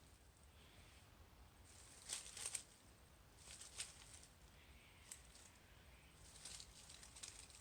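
Faint rustling and crackling of dry leaf litter in short spells, about two seconds in, near four seconds and again around six to seven seconds, as an echidna pushes its way along the ground.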